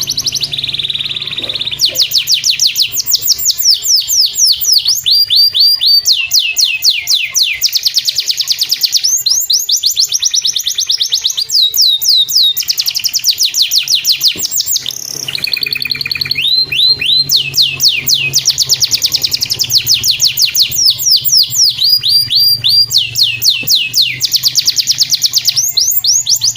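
Domestic canary singing a long song of rapid trills. Each trill is a fast run of falling whistled notes, and the bird switches from one trill to the next every second or two with only brief breaks.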